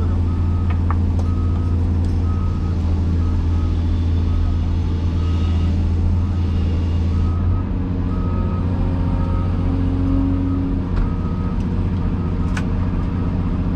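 Heavy diesel engine, most likely the Cat 336E excavator's, running steadily, with a backup alarm beeping at a regular pace over it. The engine note changes about halfway through.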